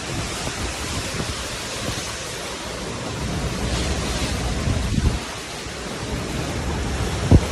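Hurricane wind and rushing storm-surge water, a steady noisy rush with gusts buffeting the microphone. There is a low thump about five seconds in and a sharper one near the end.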